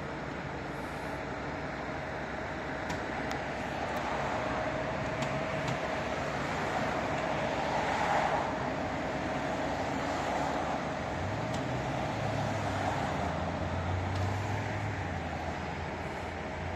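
City street traffic with vehicle engines running. The noise swells and fades about eight seconds in, and a low steady engine drone comes in a few seconds later.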